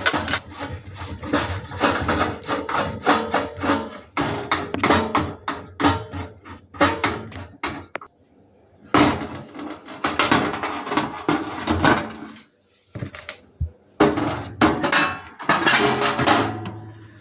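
Hand tools and metal heater parts clinking, tapping and rattling in quick irregular strokes as the gas heater is taken apart, with two brief pauses in the middle.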